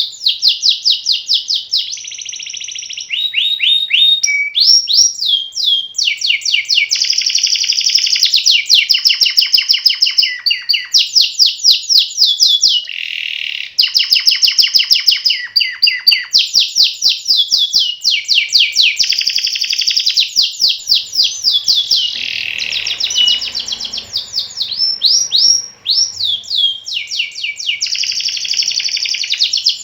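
Domestic canary singing a long, nearly unbroken song of fast rolling trills, each phrase a rapid run of repeated high notes that changes to a new trill every second or two.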